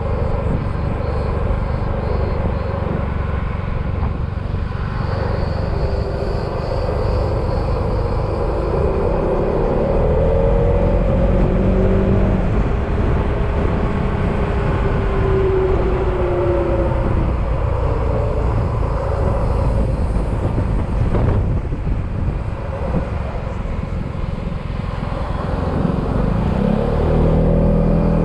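Yamaha XMAX maxi-scooter's single-cylinder engine running under way, its pitch rising and falling several times with the throttle, over a heavy low rush of wind and road noise.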